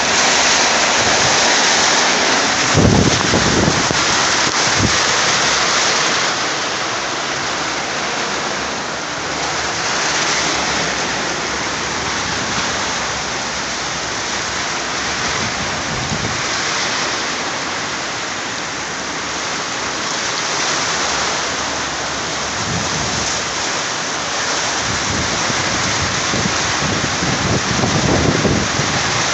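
Heavy rain pouring down in a steady, dense hiss, with a few brief low thumps, about three and five seconds in and again near the end.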